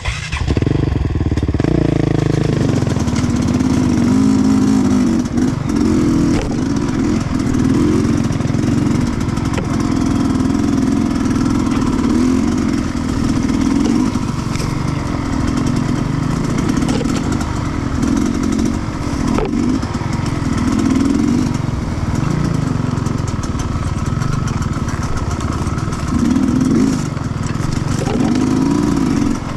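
Two-stroke enduro motorcycle engine, a Sherco 300, running under throttle as the bike is ridden, its pitch rising and falling continuously with the throttle.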